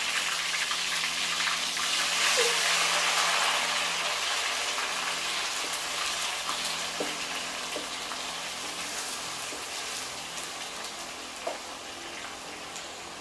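Blended garlic, onion and ginger paste sizzling in hot oil in a large wok as it is stirred with a wooden spatula. The sizzle is loudest a couple of seconds in and slowly dies down, with a few light knocks in the second half.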